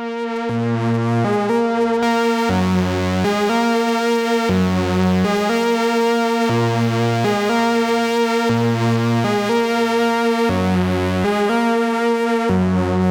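Dreadbox Typhon analog synthesizer playing a factory preset: a looping pattern over a held higher note, with a deep bass note coming in for about a second every two seconds. It swells up over the first second.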